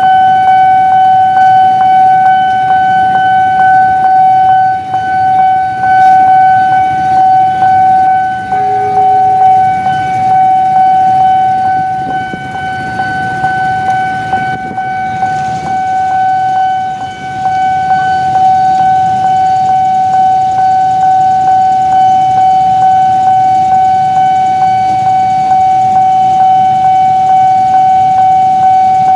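Railway level-crossing warning alarm sounding one unbroken high tone, loud and steady, with a low rumble underneath.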